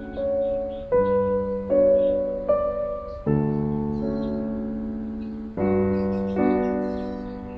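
Slow, gentle piano music: single notes and chords struck about once a second, each fading before the next.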